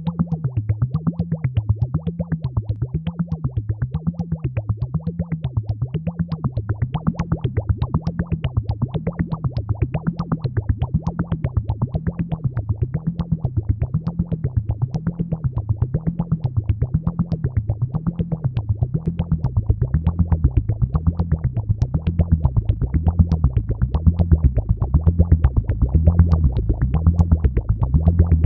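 AnalogFX SER-2020 analog synthesizer playing a fast, even run of pulsing notes over a low tone that wobbles up and down in pitch about once a second. In the last third the low tone drops lower and gets louder.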